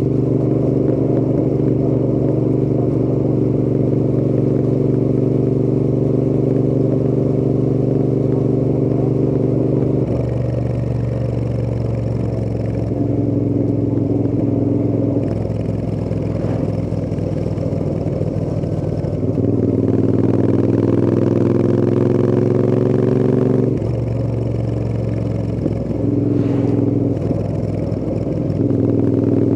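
Royal Enfield Interceptor 650's 648 cc parallel-twin engine and exhausts under way. It runs at a steady pitch for about ten seconds, then eases off. About two-thirds of the way in it rises in pitch under acceleration for a few seconds before dropping back, and it settles into a steady run again near the end.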